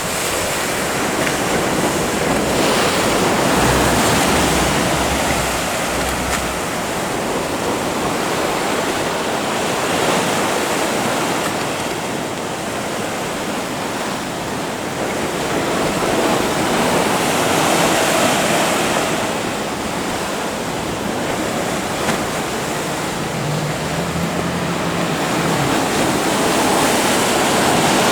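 Ocean surf: large breakers crashing and washing in, the roar swelling and easing every several seconds as waves break.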